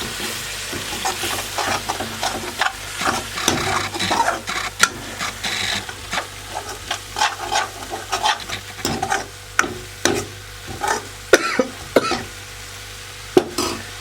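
A spoon stirring and scraping ground masala (cumin, coriander and turmeric with a little water) as it sizzles in hot oil in a pan, in quick irregular scrapes and clicks.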